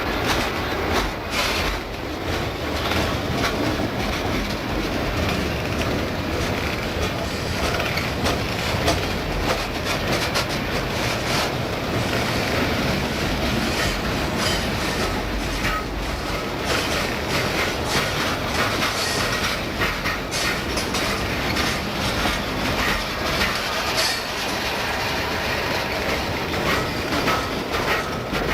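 Freight train cars rolling past, the wheels clacking steadily over the rail joints.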